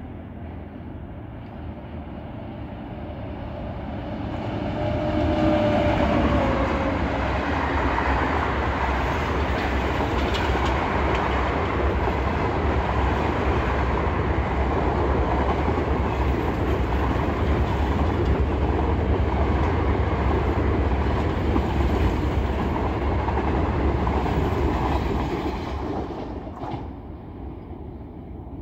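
A 36-coach express train hauled by a WAP-5 electric locomotive passing at about 140 km/h. The rush of the approaching train builds over the first few seconds, then the coach wheels run past loud and steady on the rails for about twenty seconds. The sound fades as the train draws away near the end.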